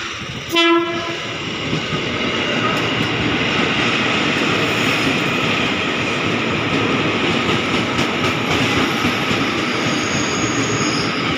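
JR 205 series electric commuter train sounding one short horn blast about half a second in, then running along the platform with the steady rumble and rattle of its wheels and motors. A thin high squeal comes in near the end.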